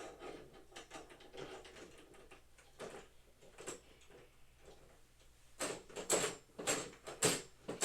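Hard parts being handled and fitted together by hand: scattered faint clicks and taps, then a quicker run of sharp clicks and knocks, about two a second, in the last couple of seconds.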